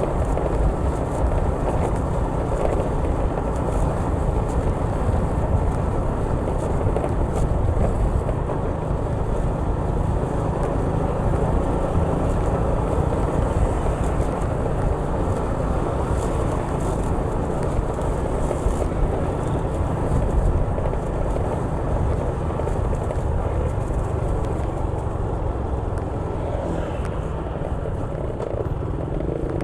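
Steady engine and road noise of a vehicle being ridden or driven along a street, with a heavy low rumble and no sharp events.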